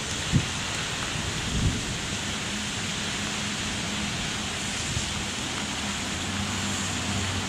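Heavy rain falling steadily, a dense even hiss of drops on the wet platform and surroundings. A couple of short low thumps come in the first two seconds, and a faint steady low hum sets in about a third of the way through.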